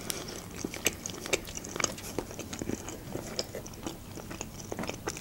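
Close-miked chewing of a mouthful of chicken and mushroom julienne: irregular wet mouth clicks and smacks.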